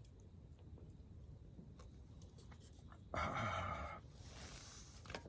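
A man's loud, satisfied "aah" after a swig of beer, falling in pitch, about three seconds in. A breathy exhale follows for about a second.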